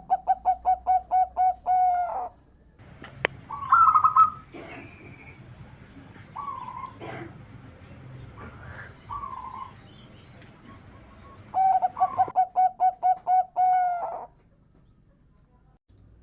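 Zebra dove (perkutut) cooing: two runs of quick repeated coos, about five notes a second, one at the start and one about twelve seconds in. Softer, higher calls come in the gap between them.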